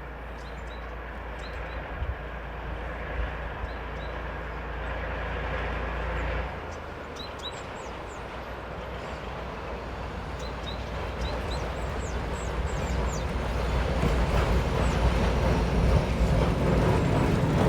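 Soviet TU-6A narrow-gauge diesel locomotive and its passenger car rumbling along the track, the sound growing steadily louder as the train approaches. Short high chirps sound now and then over the rumble.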